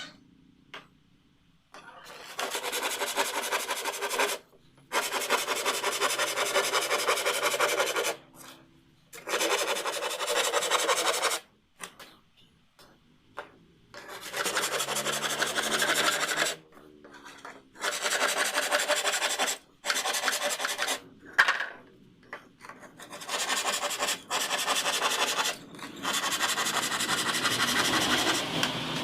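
An abrasive tool working wood in about eight spells of one to three seconds each, with short pauses between them: the rasping, rubbing sound of a wooden frame part being shaped or smoothed.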